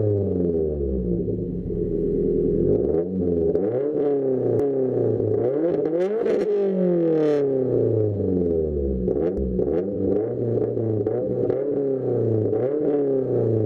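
Subaru WRX's turbocharged flat-four running through an aftermarket exhaust, its revs rising and falling repeatedly.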